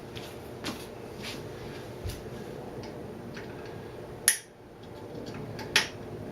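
Light metallic clicks and taps of pliers working at a broken wire pin, with two sharper clicks in the second half.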